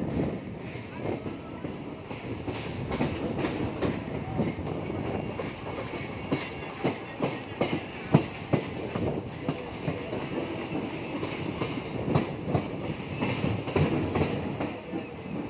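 Mumbai suburban electric local train running, heard from the open coach doorway: a steady rumble with irregular clattering of the wheels over rail joints and points. The clatter is densest around the middle and again near the end.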